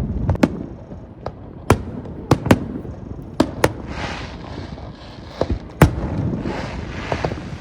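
Aerial firework shells bursting in a string of about ten sharp bangs at uneven intervals, with a crackling hiss of glittering effects after some of them around the middle and near the end.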